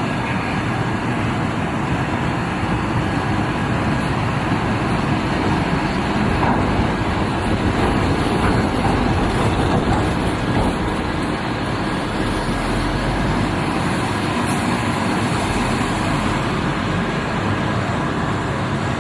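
Truck engine running steadily, with a dense, unbroken noise.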